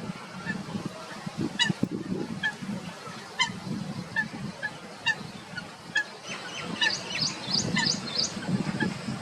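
Waterbirds calling: short, repeated calls at irregular intervals, joined from about six seconds in by a busier run of quick, high chirping notes, over a low, uneven rumble.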